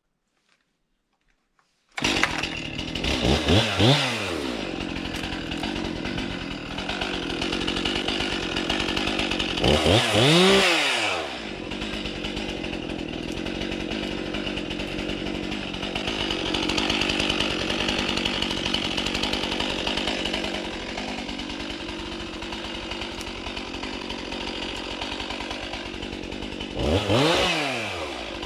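Chainsaw running at high speed through firewood, starting abruptly after a brief silence. Its engine revs up and back down three times, about two seconds in, around ten seconds in and near the end, and runs steadily between.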